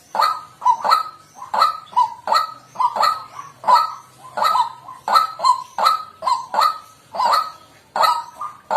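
White-breasted waterhen calling: an unbroken run of loud, repeated honking call notes, about two to three a second.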